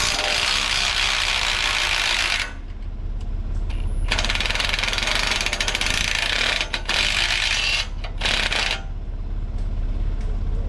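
A socket ratchet with a 1/2 inch socket turning bolts loose, in several runs of rapid clicking of a second or two each, with short pauses between. A steady low engine hum runs underneath.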